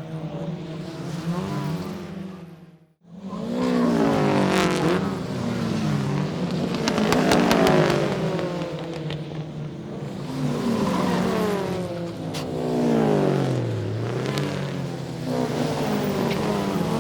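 Racing cars passing at speed one after another, each engine's pitch climbing and then falling as it goes by. There is a brief break to near silence about three seconds in.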